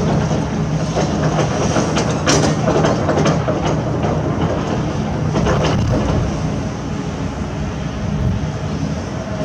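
Heavy construction machinery at work: a diesel engine running steadily, with irregular metallic clanks and knocks over it.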